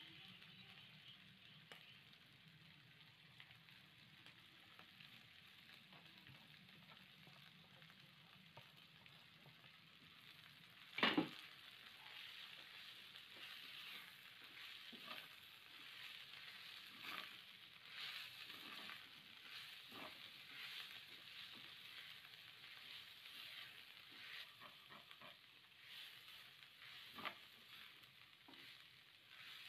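Cassava leaves and meat frying with a faint, steady sizzle in a non-stick wok, stirred with a silicone spatula. There is a sharp knock about a third of the way in, then repeated short scraping strokes of the spatula.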